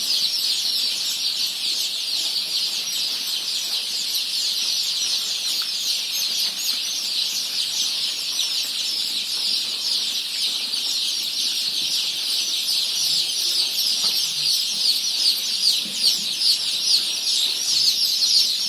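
A large group of Kadaknath chicks peeping together: a continuous, dense chorus of high-pitched chirps that grows a little louder near the end.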